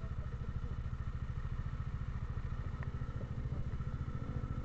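A vehicle engine running steadily on the road, with a fast, even low pulse.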